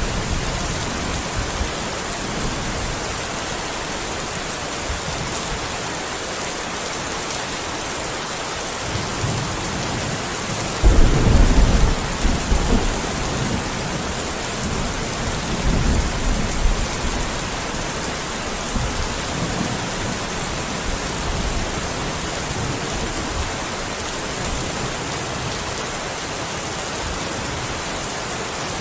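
Steady rain. About eleven seconds in, a low rumble of thunder breaks in suddenly and dies away in smaller swells over the next several seconds.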